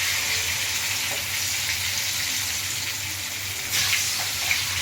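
Marinated chicken thighs sizzling steadily in hot oil in a kadai, with a brief louder surge of sizzling about four seconds in.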